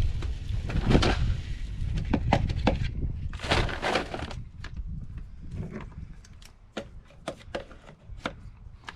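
Bird seed poured through a funnel into a feeder: a rushing pour about a second in and another around three and a half seconds in, then scattered ticks of seeds trickling and settling, thinning out toward the end as the feeder fills.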